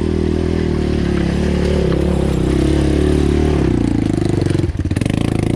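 ATV engine running close by, steady at first. About four seconds in its note drops into a fast, rough pulsing, as if labouring under load.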